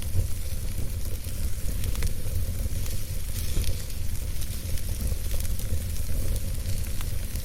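Wood campfire burning: soft crackles and the odd sharper pop of the wood over a steady low rumble and hiss.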